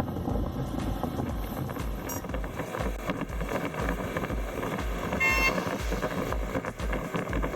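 Motorcycle riding steadily, with wind buffeting the microphone. A short vehicle horn beep sounds about five seconds in.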